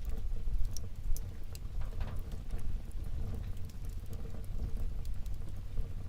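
Wood fire burning in a fireplace: a steady low rumble of flames with irregular crackles and pops, a few sharper snaps among them.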